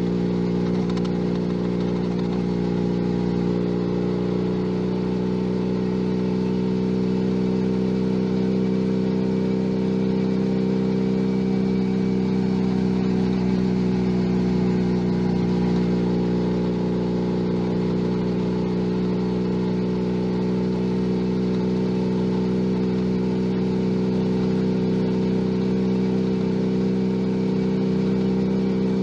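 Junak M11 Cafe 125 cc motorcycle engine running at a steady, moderate speed while cruising, its pitch rising slightly partway through and settling back.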